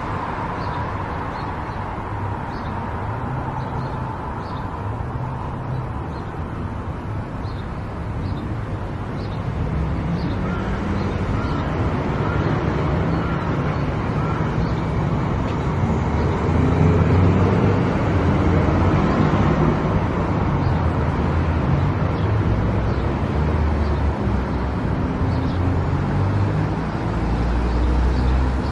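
A car driving, with steady engine and road noise that grows louder about halfway through.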